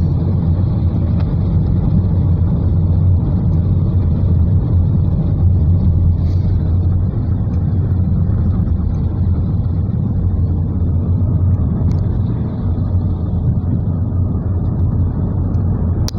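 Steady low rumble of a car driving in heavy rain, heard from inside the cabin, with an even hiss over it from rain and wet road.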